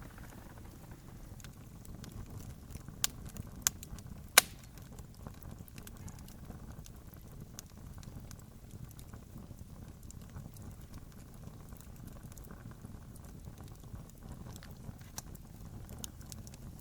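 Campfire burning with a steady low rush and constant small crackles. Three sharper pops from the burning wood come close together a few seconds in.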